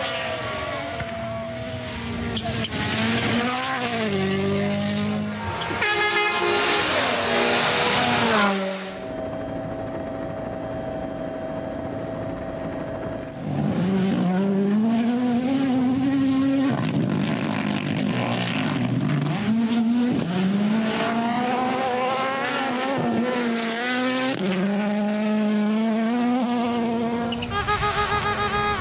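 Rally car engines revving hard through the gears at stage speed, the pitch climbing and dropping with each shift, in several edited shots one after another.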